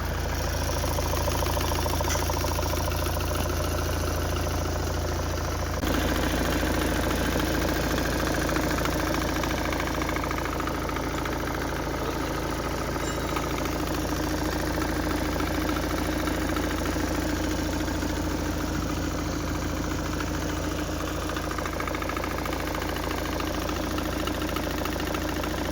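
Volvo V40 engine idling steadily, carrying a belt-drive noise that the mechanic traces to the fan belt and its tensioner bearing. The sound changes abruptly about six seconds in, after which a steady hum comes through more strongly.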